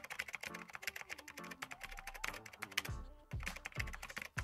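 Fast typing on a computer keyboard, a dense run of key clicks several a second, over quiet background music.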